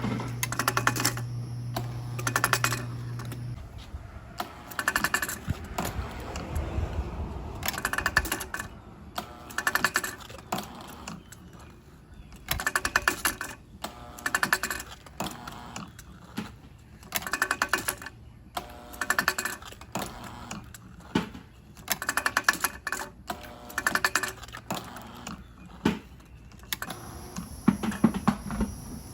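Homemade low-RPM hydraulic engine running, its mechanism clattering in short bursts of rapid clicks about every one and a half to two seconds. A steady low hum runs under it for the first few seconds, then stops.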